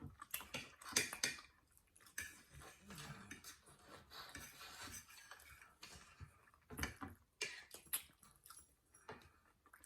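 Scattered soft clicks and knocks of cutlery against plates, with chewing, during a meal of steak and eggs; the loudest clinks come about a second in and again about seven seconds in.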